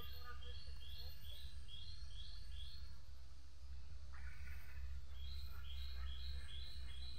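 A bird calling a rhythmic series of short, high chirps, about two or three a second. The chirps break off for a couple of seconds midway, then start again, over a steady low rumble.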